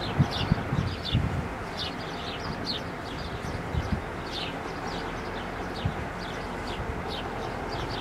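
Small birds chirping, short high downward chirps about two a second, over wind buffeting the microphone in gusts that are strongest in the first second or so.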